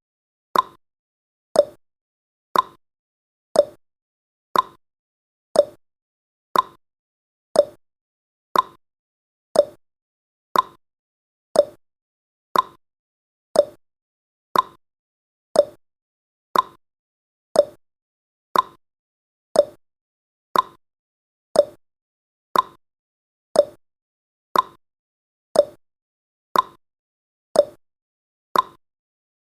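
Countdown timer's ticking sound effect: one short clock-like tick every second, each fading away quickly.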